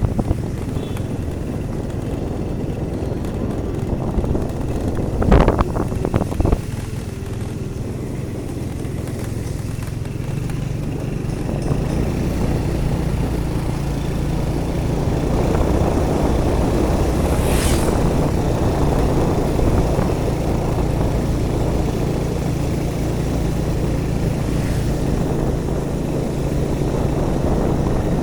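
Engine and road noise of a vehicle being driven along a street. There are a few knocks about five to six seconds in, and a louder, steadier engine hum from about twelve seconds on.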